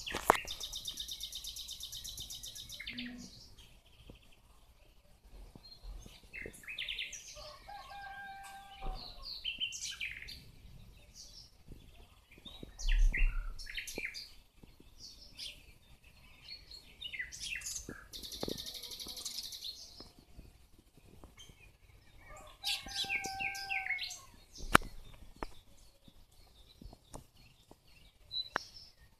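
Several songbirds singing and calling over one another, with fast high trills and lower whistled phrases. A low bump sounds about halfway through and a sharp click near the end.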